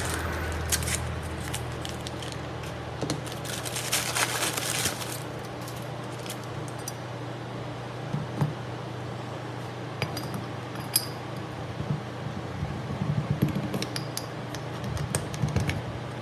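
Scattered metallic clinks and clicks of tools and engine parts being handled, a few with a short ring, over a steady low hum.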